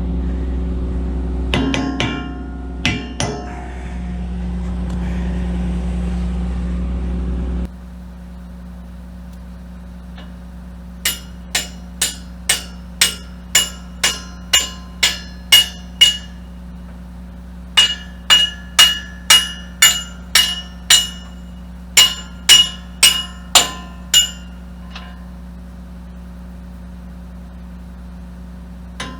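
Hammer blows ringing on steel, in three runs of quick strikes at about two a second, driving a pin out of an excavator thumb's mount. Before them a steady engine hum with a few clanks cuts off suddenly about a quarter of the way in.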